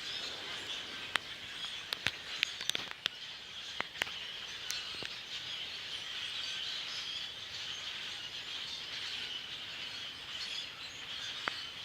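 A large flock of blackbirds calling from the trees, a steady mass of chatter, with scattered sharp chips in the first few seconds.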